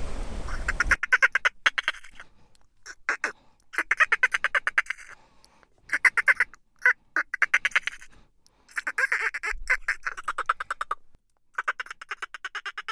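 Dolphin burst-pulse chatter: rapid trains of clicks in bouts of about a second, repeated several times with short gaps. A background hiss cuts off about a second in.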